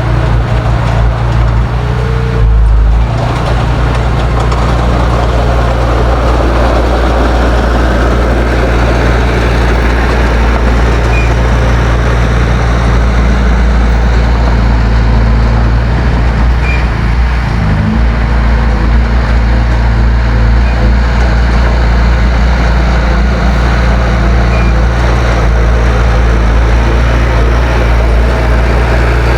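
Heavy diesel engine of earth-moving machinery running steadily under load, with a brief dip near the start and a change in engine note about halfway through.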